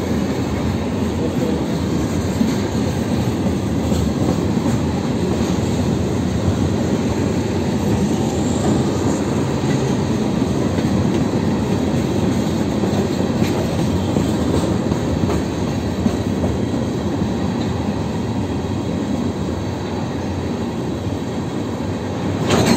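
Freight train of steel gondola cars rolling past: a steady rumble of wheels on rail, with scattered clicks from the wheels over rail joints.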